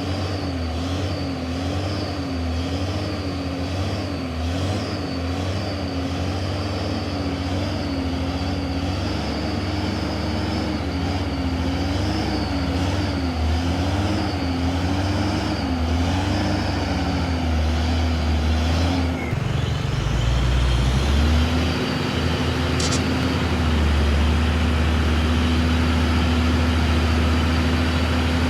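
Heavy truck's diesel engine labouring on a slippery uphill climb, its revs rising and falling about once a second. About two-thirds of the way through the sound changes abruptly and the engine settles to a steadier drone.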